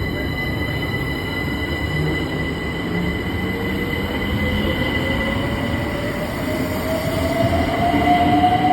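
Class 378 Electrostar electric train running on the track, its traction motor whine rising steadily in pitch as it accelerates, over wheel and rail rumble.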